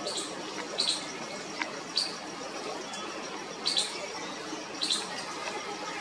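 Short, high bird chirps, about half a dozen, some coming in quick pairs, over a faint steady background.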